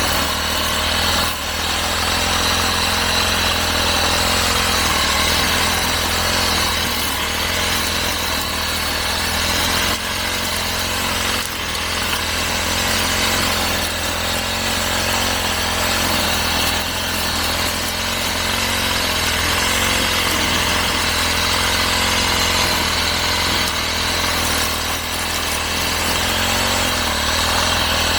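Small petrol engine of a grass cutter running steadily at high speed while cutting grass and weeds, with a few brief dips in level.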